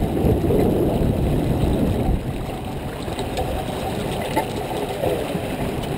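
Steady rushing noise of wind and water aboard a J24 sailboat under way, with no distinct strikes or engine tone.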